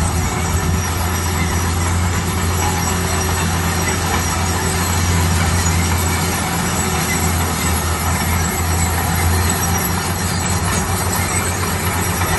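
Bulldozer working with its diesel engine running steadily: a constant low hum with an even mechanical noise over it.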